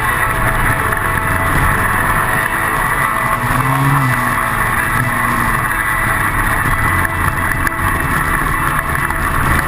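125cc pit bike engine running as it is ridden, its pitch rising and falling once about the middle, over a steady rushing noise.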